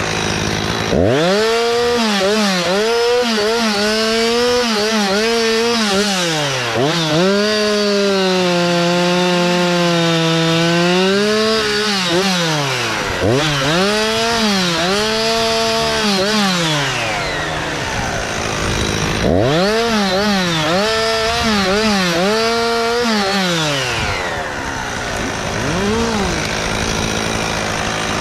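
Gasoline chainsaw cutting Japanese cedar, its engine revving up and down over and over as it works through the wood, with a few spells where the revs fall away between cuts.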